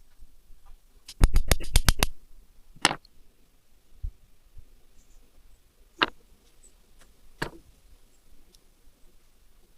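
Tools and small engine parts being handled on a workbench: a quick run of about eight sharp clicks a little over a second in, then three single knocks spaced a few seconds apart.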